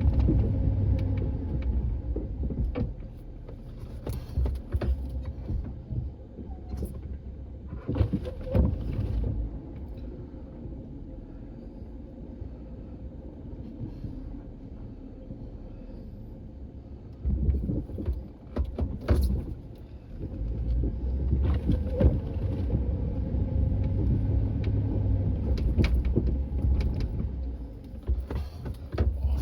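Motor vehicle engine running with a low rumble, louder and working harder at the start and again from about seventeen seconds on, with scattered knocks and clanks.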